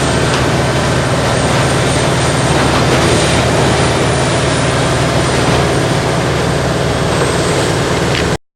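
Morbark tracked horizontal grinder running under load, a loud steady diesel drone mixed with the grinding of brush and stumps. The sound cuts off abruptly near the end.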